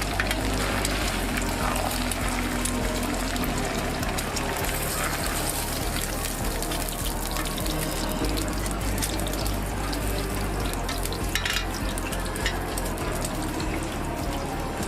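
Food sizzling on a hot griddle, with scattered clicks and clatter of utensils over a low steady hum.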